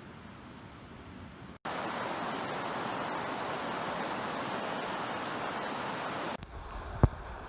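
Rushing creek water, an even hiss that comes in suddenly and loud about one and a half seconds in and drops away abruptly near the end. A single thump follows just before the end.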